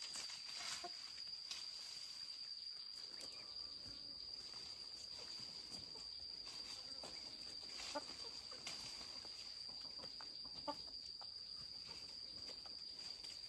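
Chickens clucking faintly, a few short calls spread through, over a steady high-pitched insect drone.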